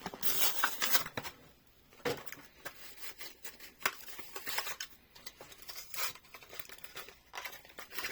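Plastic blister packaging of a diecast toy car being handled: irregular crinkling, scraping and clicking of the plastic and card.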